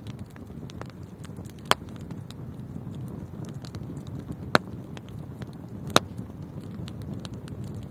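Wood fire burning in a fireplace: a steady low rush of flames with scattered small crackles and three sharp pops.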